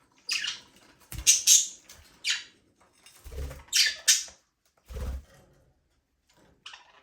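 Budgerigars chirping: a series of short, scratchy high calls, about six in a few seconds, with a few low thumps among them.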